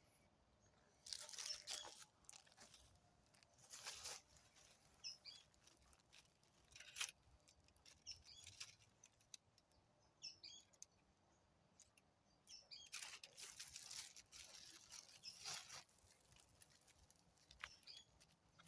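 Faint, intermittent rustling and crunching of dry forest litter in irregular bursts, with a few faint bird chirps now and then.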